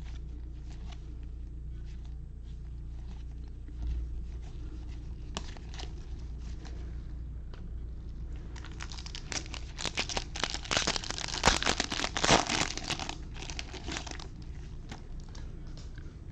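A foil trading-card pack wrapper being torn open and crinkled for several seconds in the second half, after scattered soft clicks of cards being handled.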